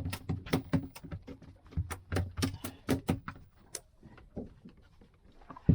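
A freshly landed fish thrashing on the boat, slapping and knocking against the deck in a quick irregular run. The run thins out after about three seconds, and one sharp knock comes near the end.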